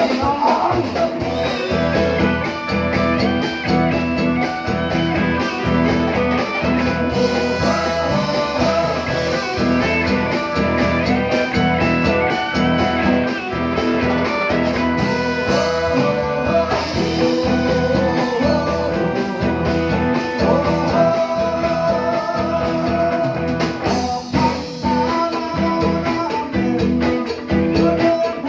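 Live band music: plucked string instruments over a steady percussion beat, with a voice singing at times.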